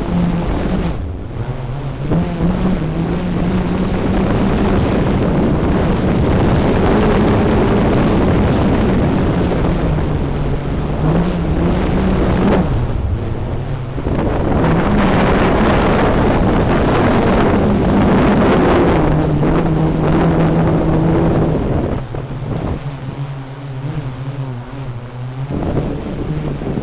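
DJI Mavic 3 Pro quadcopter drone flying, its propellers giving a loud whirring hum over a rushing noise. The pitch shifts up and down as the motors change speed. It dips briefly twice and is quieter and steadier over the last few seconds.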